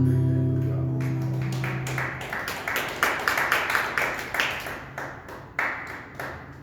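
A final guitar chord ringing out and fading, then a small audience clapping from about a second in, in quick irregular claps.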